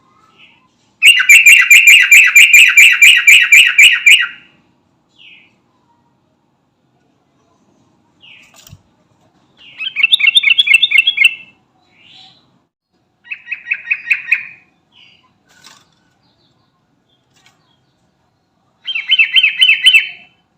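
Sooty-headed bulbul (trucukan) singing in four loud bouts of rapid repeated notes, the first about three seconds long and the later ones shorter, with short quiet gaps between.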